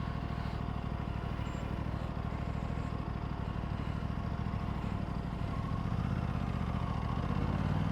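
Aprilia RS 457's parallel-twin engine ticking over steadily, then rising in pitch under throttle about six seconds in as the motorcycle pulls away.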